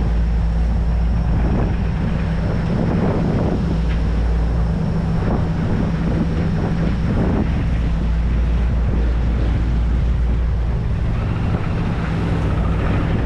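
Volvo Penta D3 110 hp five-cylinder diesel inboard of a sailing yacht running steadily under way at about 2,300 RPM. Wind buffets the microphone.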